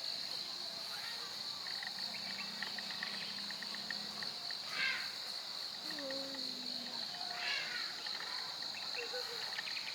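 Insects trilling in a steady high drone, with a faster pulsed chirping joining in about two seconds in for a couple of seconds.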